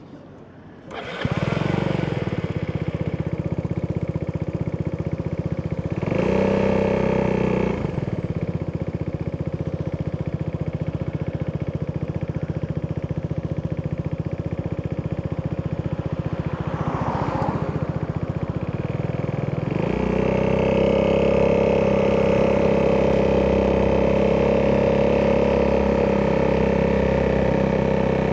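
Italjet Dragster 200's four-stroke DOHC single-cylinder engine through an Akrapovic exhaust, starting up about a second in and settling to a steady idle. It is blipped briefly around six seconds and again lightly around seventeen seconds, then runs at higher, steady revs from about twenty seconds on.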